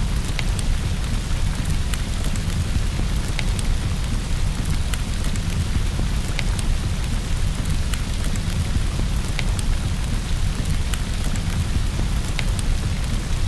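Steady rain, a constant hiss with a continuous low rumble underneath and scattered sharp ticks.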